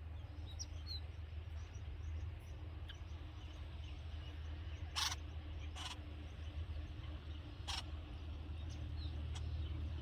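Faint, high chirps of red-vented bulbuls at the nest, with three short, sharp sounds about halfway through and a little later, over a steady low hum.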